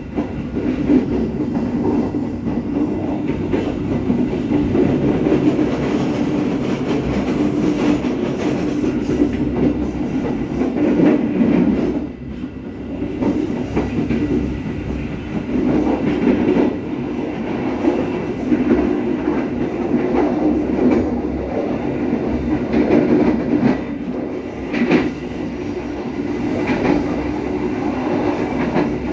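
Carriage of the Serayu passenger train running along the line: a steady rumble of steel wheels on the rails, with scattered clacks as the wheels cross rail joints.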